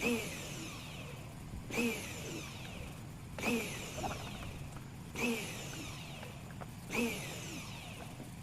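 Pressure washer running on the engine bay, surging at a regular beat about every second and a half to two seconds, five times.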